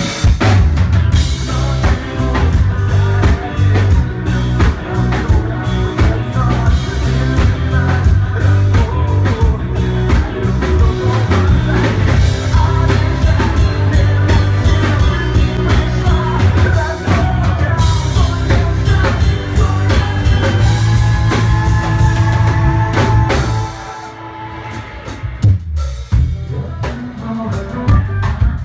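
A band playing with a drum kit and singing, a steady driving beat; about four-fifths through the music drops away and gets quieter.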